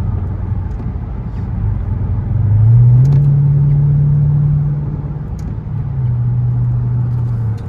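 Dodge Charger R/T's V8 engine running under way, rising in pitch and getting louder about two and a half seconds in as it accelerates, holding for a couple of seconds, then easing back to a lower steady pitch.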